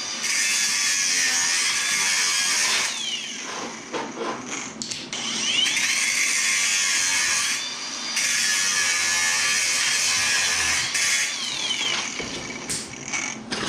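Small electric power grinder grinding metal in three runs of a few seconds each, its pitch rising as it spins up and falling as it winds down, with light clanks between runs.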